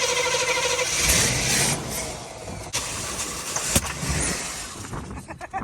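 A 1984 Buick Regal's engine being cold-started after four years sitting: the starter cranks with a pulsing whine, then about a second in the engine catches on starting fluid and sputters unevenly with sharp pops, fading toward the end.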